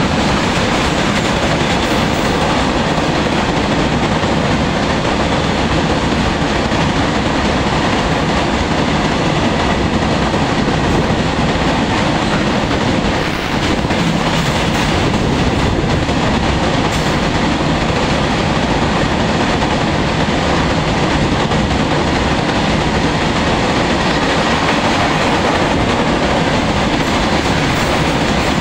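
Open-top steel freight wagons of a long goods train rolling past at speed, their wheels running on the rails in a steady, loud rumble.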